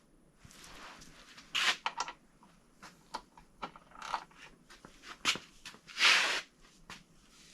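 Hand tools being worked on an engine block as the crankshaft hub bolt is torqued: scattered clicks, knocks and short scrapes, with a longer, louder rasp about six seconds in.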